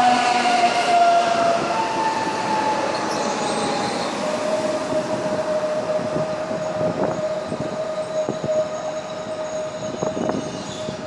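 Electric multiple unit slowing into a stop: its motors whine in several tones that slide down in pitch, then settle into one steady tone from about four seconds in, over rolling noise and a few clicks.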